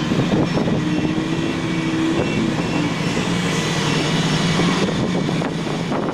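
A heavy vehicle's engine running steadily, a low hum with a higher tone over it.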